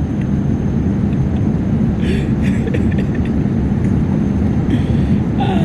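Steady low drone of an airliner cabin in flight: engine and airflow noise holding an even level.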